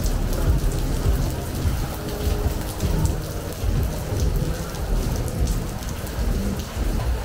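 Steady rain, with many sharp drops ticking on an umbrella overhead, over a deep, continuous rumble.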